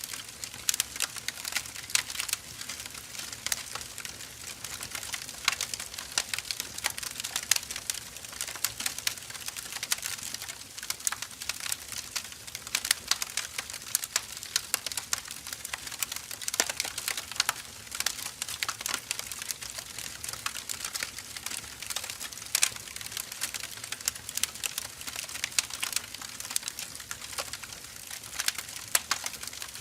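Firewood burning in a fire, crackling and popping steadily, with frequent sharper pops among a dense run of small crackles.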